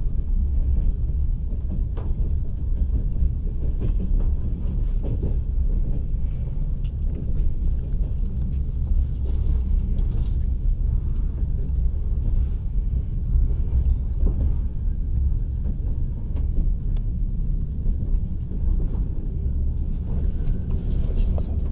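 Passenger train carriage running along the track: a steady low rumble of wheels on rails, with a few faint clicks scattered through it.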